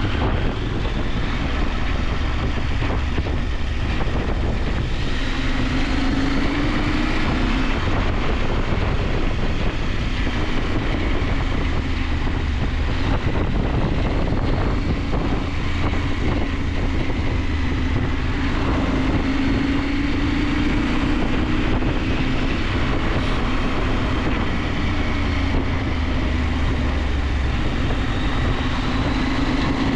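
KTM 890 Adventure's parallel-twin engine running under way, its pitch slowly rising and falling with engine speed over a steady rush of wind noise.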